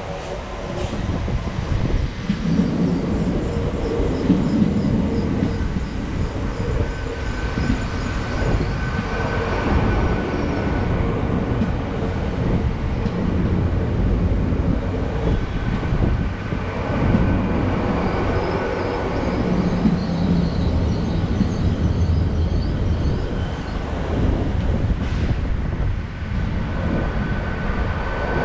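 GWR Intercity Express Train (Class 800 family) pulling into the platform and rolling slowly past: a steady rumble of wheels on rail and underfloor machinery that swells and eases as the carriages go by. A thin steady whine comes in about five seconds in.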